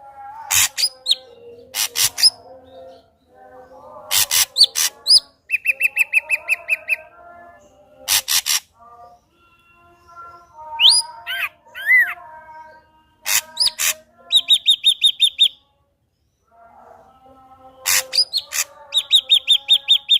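Ashy drongo in full song: a varied stream of loud harsh notes and whistled up- and down-slurs, broken by fast trills of evenly repeated notes, in phrases a few seconds long with short pauses between.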